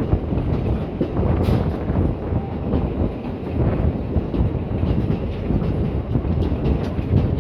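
Steam train hauled by the 1909 Buffaud-Robatel 031T tank locomotive No. 3714 running along the line: a steady rolling rumble of wheels on rail, with scattered short clicks.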